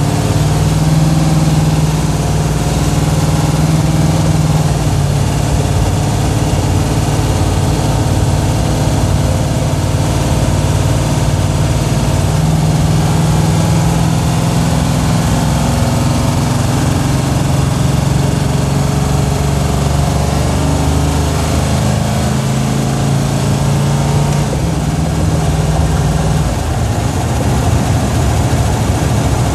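Plymouth Duster's 440 cubic-inch Chrysler big-block V8 running as the car drives, heard from inside the cabin. The engine note stays loud and fairly steady, shifting a little in pitch now and then.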